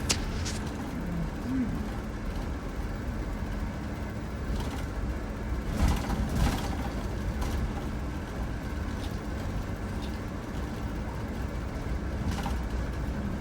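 Motor vehicle driving, a steady low engine and road rumble heard from inside, with a few brief knocks or rattles, the loudest a pair about halfway through.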